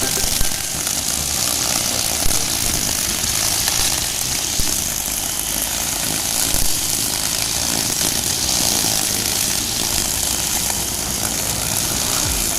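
Honda GX four-stroke brush cutter running steadily at speed, its 2.4 mm nylon trimmer line spinning.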